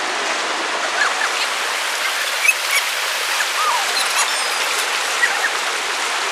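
River water flowing: a steady rushing, with a few faint short high chirps scattered through it.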